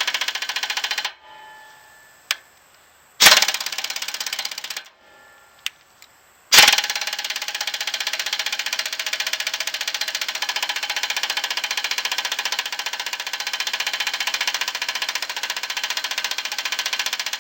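Pneumatic impact wrench hammering on a rust-seized bolt in three runs: a short one ending about a second in, another around three to five seconds, then a long unbroken run from about six and a half seconds in until near the end.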